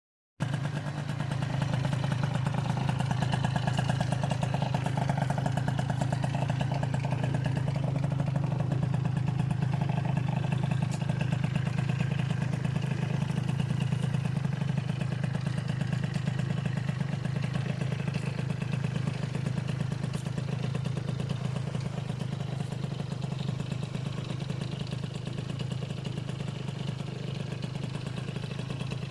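Italjet Dragster scooter's tuned Minarelli two-stroke engine running steadily, starting about half a second in and easing slightly in level later.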